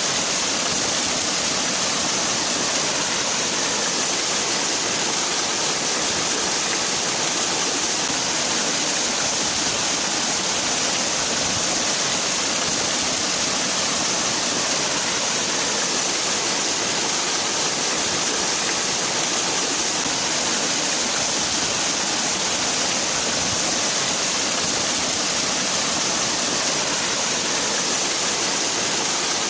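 Waterfall: water falling and splashing in a steady, unbroken hiss-like rush.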